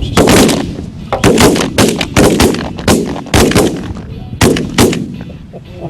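Volley of shotgun fire from several waterfowl hunters: about a dozen sharp shots in quick, uneven succession, some in rapid pairs, tapering off near the end.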